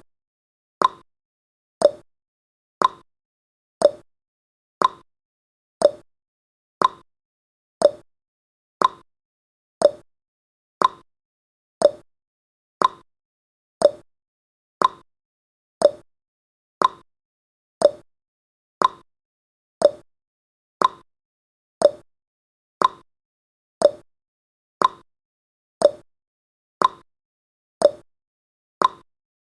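Countdown timer's ticking sound effect: a short, pitched click once every second, each dying away quickly.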